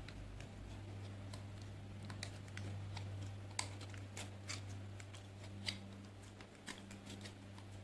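Faint, scattered small clicks and crackles from glitter slime being handled, about a dozen spread irregularly, over a steady low electrical hum.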